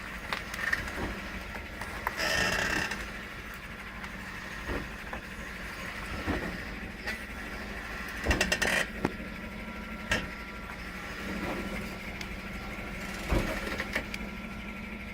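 2014 GMC Sierra 1500 pickup heard from inside the cab while driving: a steady drone of engine and road noise with scattered short creaks and clicks from the truck, including a quick run of them about eight seconds in.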